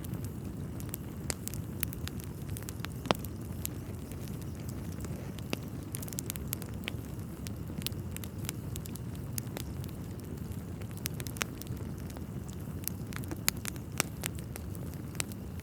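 Wood fire burning in a fireplace: a steady low rumble with irregular sharp crackles and pops throughout, one louder pop about three seconds in.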